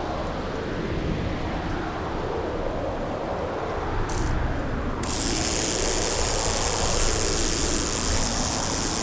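Steady rumbling, wind-like noise with no pitch to it. A short burst of static hiss comes in about four seconds in, and a steady static hiss joins about a second later.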